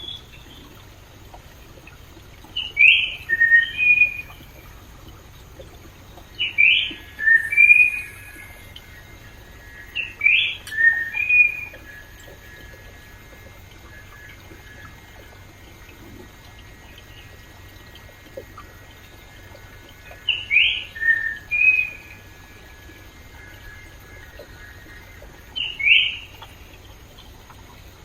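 A songbird singing a short phrase of a few quick notes, repeated about five times with a long pause in the middle, over the faint steady rush of a stream.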